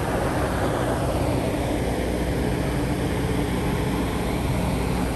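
Metra commuter train of stainless-steel bilevel gallery cars rolling slowly past the platform: a steady low rumble.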